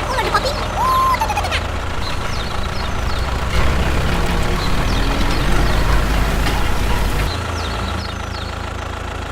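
Steady low engine drone of a mini bulldozer-tractor running, easing off a little near the end. A short whistle-like tone rises and falls about a second in, and faint short high chirps come and go over it.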